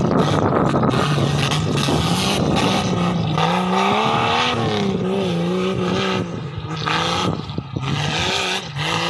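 Off-road vehicle's engine running under load, its revs rising and falling unevenly, with rattles and knocks over a constant rough noise.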